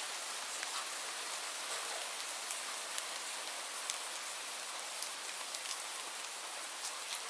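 Steady rain: an even hiss with scattered sharp ticks of single drops striking a surface.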